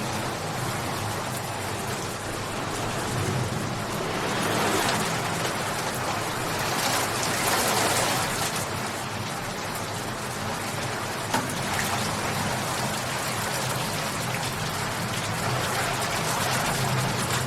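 Steady heavy rain falling on surfaces, an even hiss that swells and eases, with one sharp tick about two-thirds of the way through.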